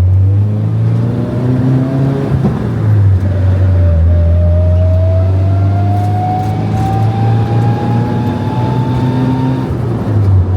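Nissan 240SX with an SR20DET engine pulling under acceleration, its manual transmission whining in a thin tone that climbs steadily with road speed in second gear for several seconds, then stops near the end at the shift to third. The owner suspects the whine comes from low transmission fluid leaking out where the driveshaft meets the transmission.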